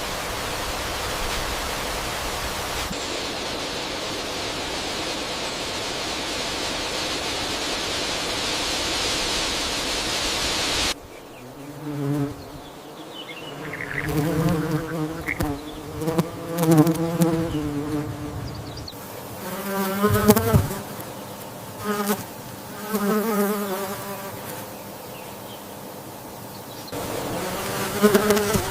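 A steady hiss for about the first ten seconds, then an abrupt cut to flying insects buzzing. The buzzes come and go several times, wavering up and down in pitch.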